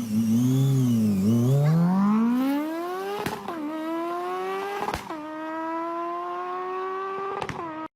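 A car engine revs up and down, then accelerates hard through the gears. The pitch climbs steadily, dips sharply at each of three upshifts, and climbs again.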